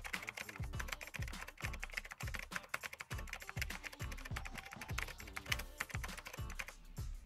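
Fast, irregular typing on a computer keyboard: rapid runs of key clicks as code is entered.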